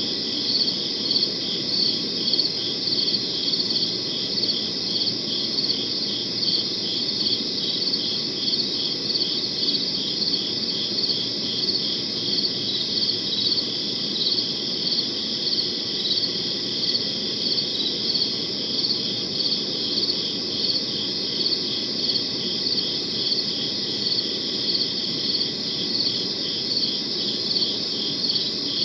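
Crickets chirping in a steady night chorus: high, rapidly pulsed chirps repeating evenly, over a low steady hum.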